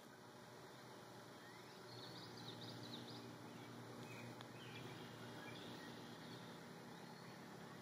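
Faint outdoor ambience: a steady low hiss with a few short, high bird chirps in the middle.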